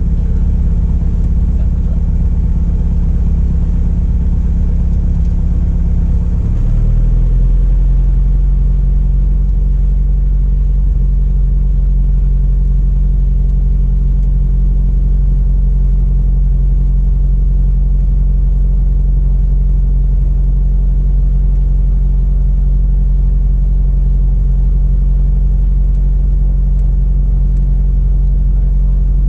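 Cessna Cardinal RG's four-cylinder Lycoming engine and propeller droning steadily, heard inside the cabin. The engine note changes abruptly about six and a half seconds in, then holds steady.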